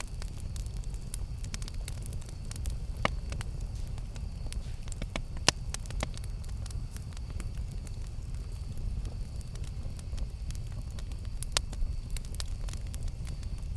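Wood campfire burning with a steady low rumble and frequent sharp crackles and pops, a few louder snaps standing out.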